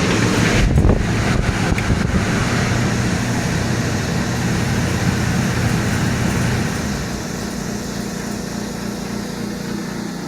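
A 1965 Sears Coldspot 18,500 BTU window air conditioner running with its compressor on: a steady low compressor hum under the rush of the blower fan. A few sharp clicks come in the first two seconds, and the lowest part of the hum eases about two-thirds of the way in.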